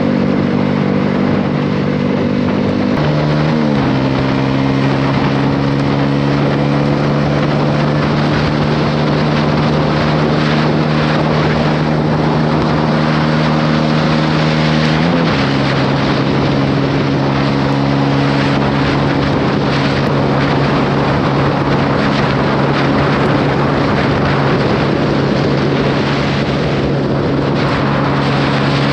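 Honda CB125R single-cylinder engine through a LeoVince LV10 exhaust, running steadily at cruising speed under way, with wind and road rush. The engine note steps to a new pitch about three seconds in and again about fifteen seconds in.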